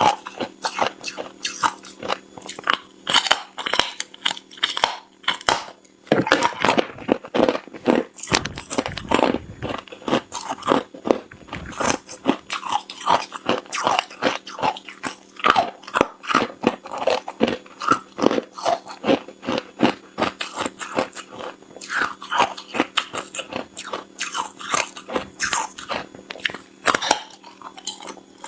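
Hard ice being bitten and chewed close to the microphone: rapid, irregular crunches, several a second.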